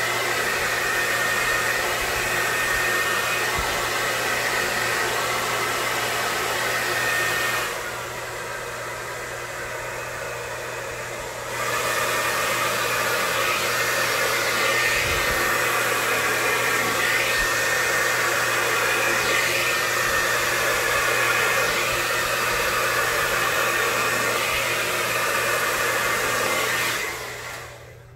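Hair dryer blowing steadily, pushing poured acrylic paint across a canvas in a Dutch pour, with a faint motor whine. It drops quieter for a few seconds near the start, comes back up, and switches off just before the end.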